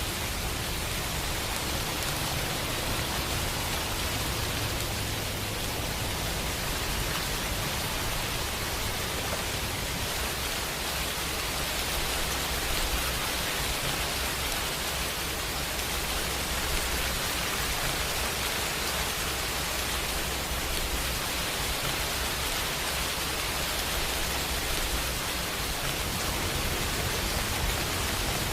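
Steady rain, an even hiss of drops falling without pause and at an unchanging level.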